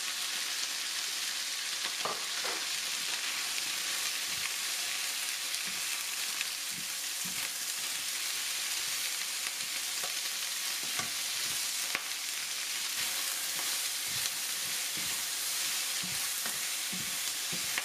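Sliced onions and chicken pieces sizzling in hot oil in a wok, a steady hiss, while a spatula stirs them and now and then taps or scrapes against the pan.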